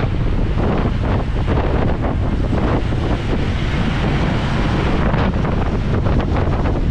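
Steady, loud wind buffeting on an action camera's microphone while riding a motorbike.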